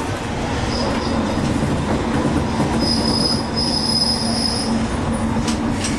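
Kamioka Railway diesel railcar running, heard from the cab, with a steady rumble of wheels on rail. About three seconds in, a high, thin wheel squeal sets in and holds for nearly two seconds.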